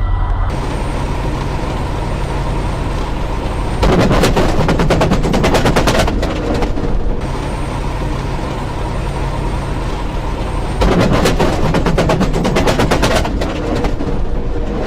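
Truck running down the road, heard from the cab as a steady drone, with two stretches of a rapid, even rattle about two and a half seconds long each, starting about four seconds in and again about eleven seconds in.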